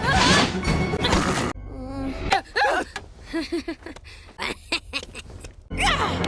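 A cartoon girl's voice making silly nonsense noises: short pitched yelps and warbles that slide up and down, in clips spliced together with abrupt cuts, the first of them over loud background sound.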